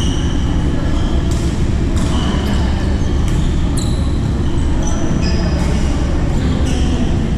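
Badminton play on an indoor court: sharp hits of rackets on the shuttlecock and short, high squeaks of shoes on the court floor, several times, over a steady din from the hall.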